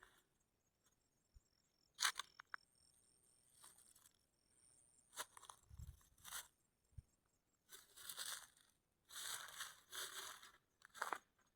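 Faint rustling and crunching, like something dry being handled, with a few sharp clicks in the first half and several short crackly bursts near the end.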